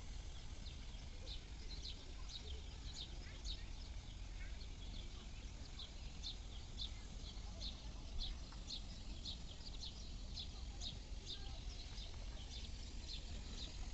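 Short high-pitched chirps repeating two or three times a second from a small creature, over a low rumble.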